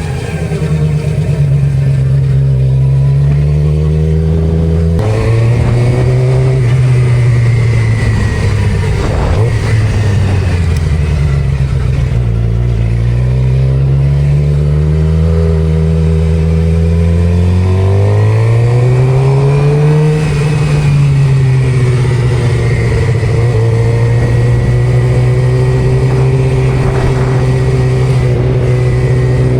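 Suzuki GSX-R600 inline-four engine pulling under way, its pitch climbing and then dropping at gear changes about five seconds in and again near eighteen seconds, before holding steady at cruise.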